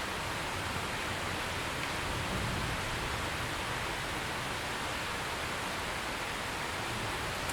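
Steady heavy rain falling, an even hiss with no single drops standing out.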